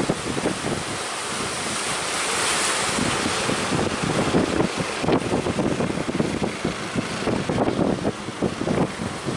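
Sea waves breaking and washing, with strong wind buffeting the microphone; a brighter rush of surf about two to three seconds in.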